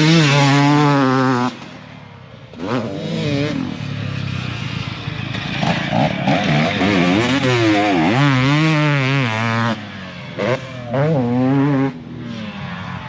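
Motocross dirt bike engine revving up and down repeatedly as the bike rides on the track, the pitch rising and falling with the throttle, with a brief lull about two seconds in.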